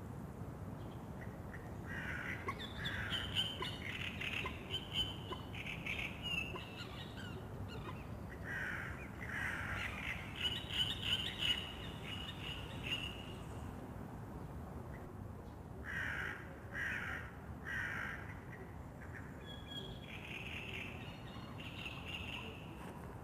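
Birds calling in bouts of repeated calls a few seconds apart, with three short calls in quick succession about two-thirds of the way through, over a steady low background noise.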